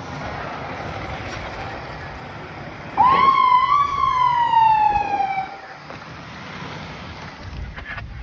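Fire truck siren giving one wail about three seconds in: a quick rise, then a slow downward slide over about two and a half seconds before it cuts off. Vehicle and road noise runs underneath.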